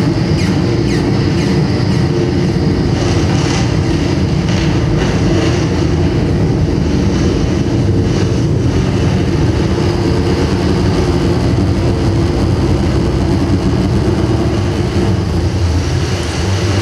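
Live experimental noise music from an improvising ensemble: a loud, dense, continuous wall of low rumbling noise with a grainy hiss above it.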